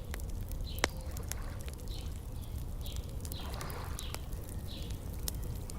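Wood fire crackling, with scattered sharp pops and one louder pop about a second in, over a steady low rumble. A small bird chirps repeatedly, about twice a second.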